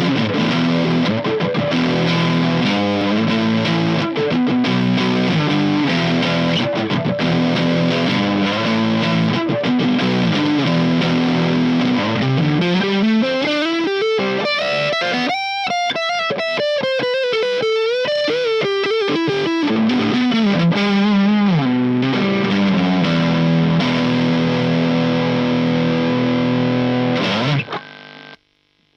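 A 1960s Kawai-made Arirang electric guitar played through distortion: held chords, then in the middle a long glide up in pitch and wavering, bent notes coming back down, then chords again. The playing stops shortly before the end.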